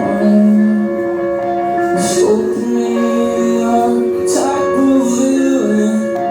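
Live band playing a song with sung vocals.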